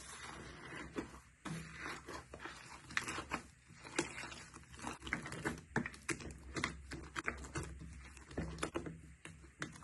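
Slime being pressed, stretched and squished by hand, giving irregular sticky clicks and pops, several a second.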